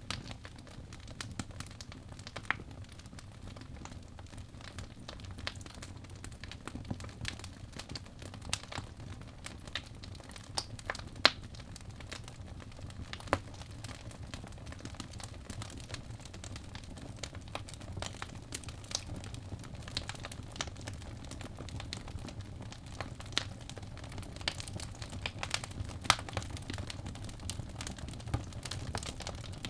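Wood fire burning in a fireplace: irregular crackles and sharp pops over a steady low rumble of the flames, with a few louder snaps standing out.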